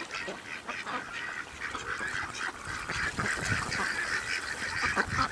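A flock of ducks calling over each other, many short overlapping honks and quacks, getting louder about halfway through as they crowd in for thrown bread.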